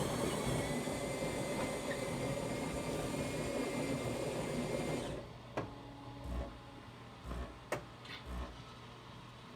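Miele CVA 6805 built-in coffee machine's bean grinder running, a steady motor whine that stops abruptly about five seconds in. A few sharp clicks follow as the machine moves to its next step.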